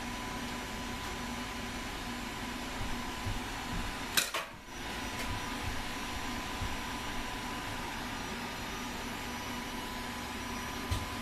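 Steady hiss and hum with a faint constant tone, broken by one sharp click about four seconds in and a few soft knocks.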